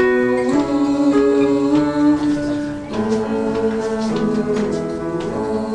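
Live choir-and-band music: held chords that change about once a second, over light percussion.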